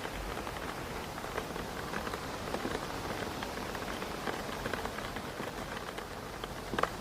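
Rain hitting a window pane: a steady hiss of rain with many small drop ticks scattered through it, and one louder drop near the end.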